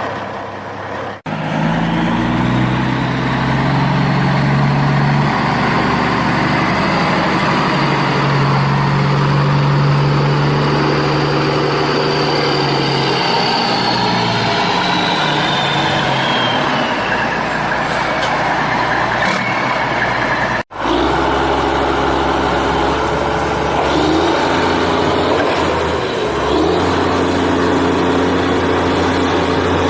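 Vehicle engine running steadily, with a whine falling slowly in pitch midway and two abrupt cuts, one about a second in and one about two-thirds through.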